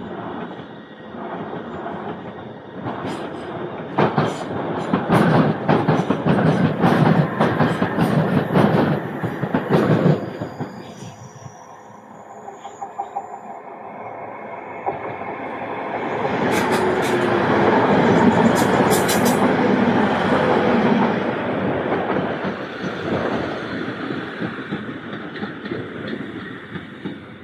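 Passenger trains passing: wheels clacking rapidly over rail joints and points for several seconds, then after a lull a second multiple unit runs past with a low steady hum and a few high wheel squeals.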